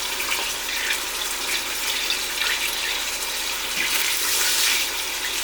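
Chicken thigh pieces sizzling in melted butter in an Instant Pot on sauté mode: a steady hiss with small crackles.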